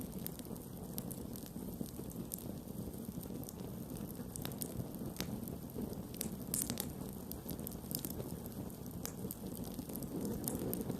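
Wood campfire burning: a steady low rush of flames with scattered, irregular sharp crackles and pops from the burning wood.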